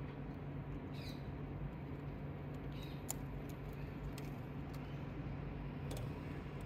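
Alexandrine parakeet picking and scraping paint off a surface with its beak: scattered small clicks and a couple of brief scratches, over a steady low hum.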